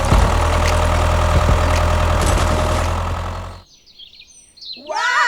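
A small motor runs steadily with scattered clicks, then cuts off suddenly about three and a half seconds in. After a short near-silence, a pitched, sliding musical tone begins near the end.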